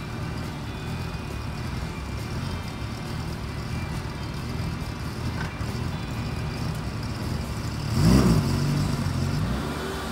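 Lamborghini Gallardo Spyder's V10 engine running at low revs as the car rolls slowly away, with one sharp rev about eight seconds in, its pitch rising and falling back.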